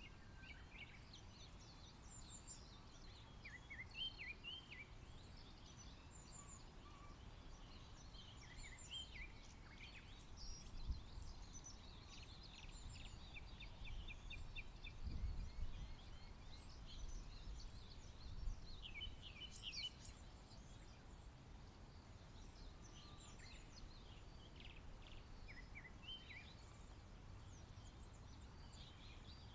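Several birds singing and calling at once: many short chirps and quick notes, some in fast trills, overlapping throughout. A soft low rumble swells briefly about halfway through.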